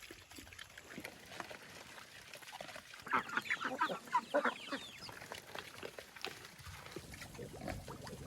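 Farmyard poultry calling: a rapid burst of short clucking calls lasting about two seconds, starting about three seconds in.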